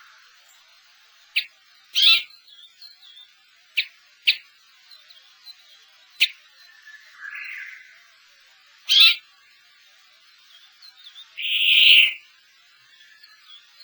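Wild finches calling: scattered short, sharp call notes about every one to two seconds, with two longer, harsher calls, the loudest near the end.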